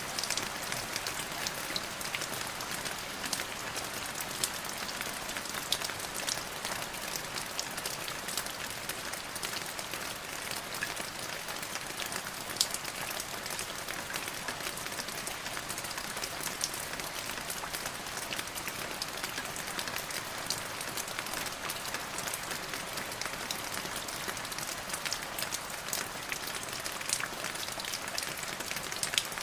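Steady rain falling, a dense even hiss with many individual drops ticking close by.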